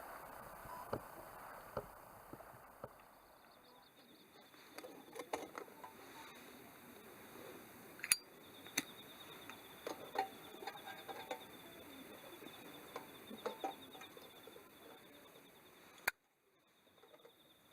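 Campfire crackling with scattered sharp pops, under a steady high pulsing trill of insects. The sound drops off abruptly near the end, like a cut.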